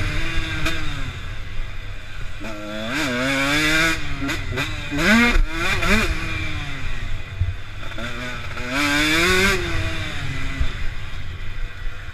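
Motocross dirt bike engine revving up and down with the throttle, its pitch rising and falling, with several quick sharp blips near the middle.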